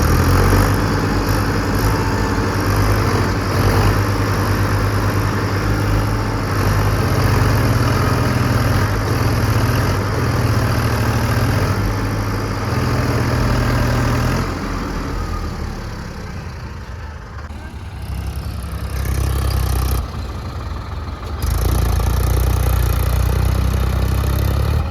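Tractor diesel engines running hard during a mud recovery with a steady low drone. The drone eases off about two-thirds of the way through, then comes back to full strength near the end.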